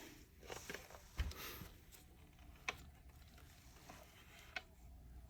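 Light handling noises of plastic vacuum-cleaner parts, with a few sharp clicks and a soft knock spread through the quiet.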